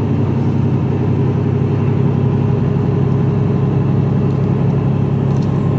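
Mercedes-Benz Actros lorry's diesel engine and road noise heard from inside the cab while driving, a steady low drone.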